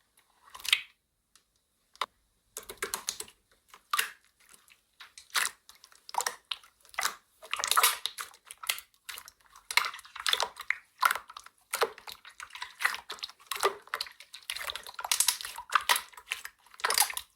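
Slime being squished and pressed by hand, making irregular wet clicks and crackly pops.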